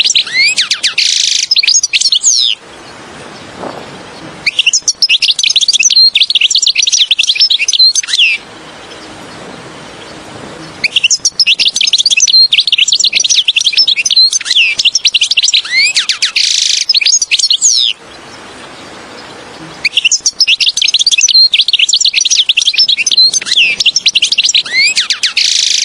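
European goldfinch singing: stretches of fast, twittering song that break off three times for about two seconds each.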